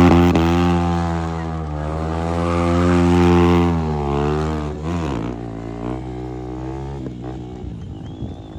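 Motorcycle engine held at high, fairly steady revs, its pitch wavering slightly, then dropping away about five seconds in to a fainter running sound.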